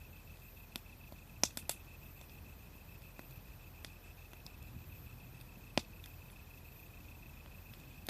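Wood fire crackling: a few sharp pops, three in quick succession about a second and a half in and another strong one near six seconds, over a faint low rumble.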